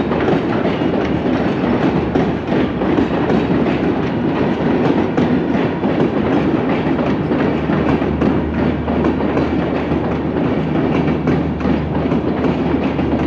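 Silk City Express train running on the rails: a steady rumble with a quick, irregular clatter of wheels over the track, joined by a low steady hum about eight seconds in.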